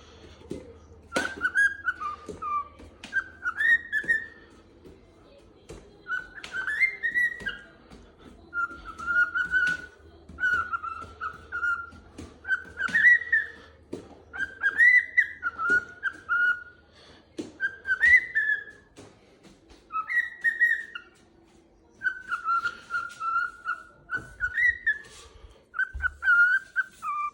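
Cockatiel whistling a tune in short repeated phrases, one every second or two, a sign the bird is in high spirits. A few sharp clicks fall between the phrases.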